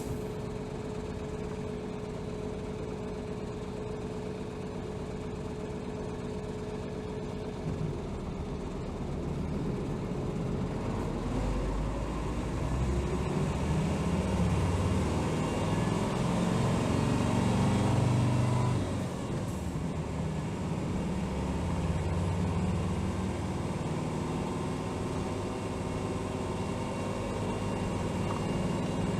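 Diesel engine of a 2007 Hino Rainbow HR low-floor city bus heard from inside the cabin: it runs steadily at first, then about eight seconds in pulls away and builds up under acceleration, drops off sharply at a gear change or lift-off about two-thirds of the way through, and carries on running.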